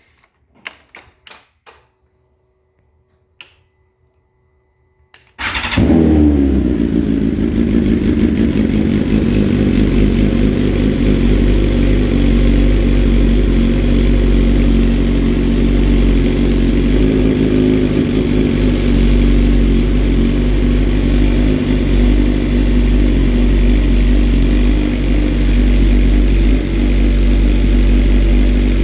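A 2020 BMW S1000RR's inline-four engine cold-started: a few quiet clicks and a faint hum, then about five seconds in the engine fires at once and settles into a steady, even cold idle. This is the cold start after a Bren Tune Stage 2 ECU flash meant to cure its cold-startup trouble.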